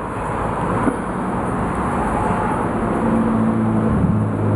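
A motor vehicle's steady rumble, growing louder, with a low engine hum coming in near the end.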